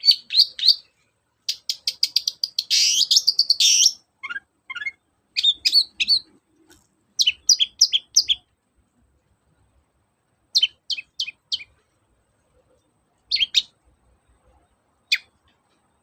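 Long-tailed shrike (cendet) singing in short bursts of sharp, high chirps. It gives a fast, dense run of notes a couple of seconds in, then groups of three to five quick notes with lengthening pauses between them, ending on a single note.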